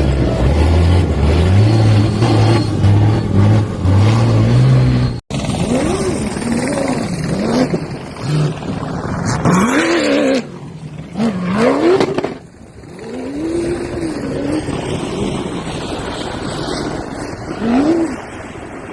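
Off-road rally vehicle engines at speed: first an engine note holding and stepping up in pitch, which breaks off about five seconds in, then engines revving up and down again and again as the vehicles pass.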